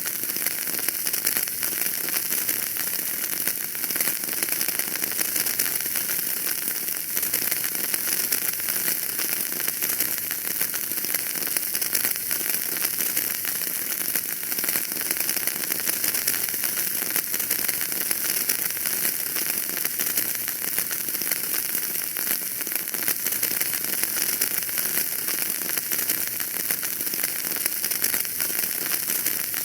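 Wood fire burning in a fireplace, crackling steadily with dense, fine pops over a hissing bed of noise.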